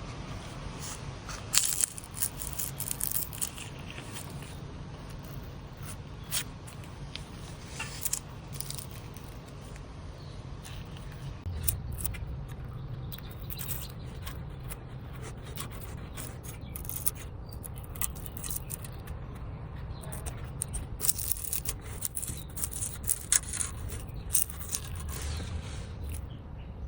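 Scattered scraping, tearing and light clicks of hands pulling old chrysalis cases and their silk off a butterfly house, over a steady low rumble.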